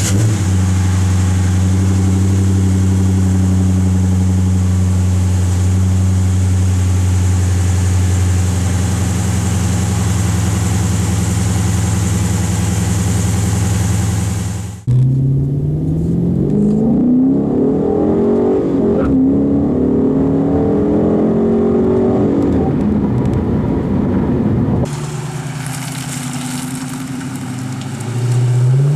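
Dodge Charger R/T's 5.7 L Hemi V8 through a resonator-deleted Magnaflow exhaust: a steady idle for about fifteen seconds, then the engine accelerating with its pitch climbing in several rising sweeps. Near the end it settles to a steadier, quieter run before revving up again.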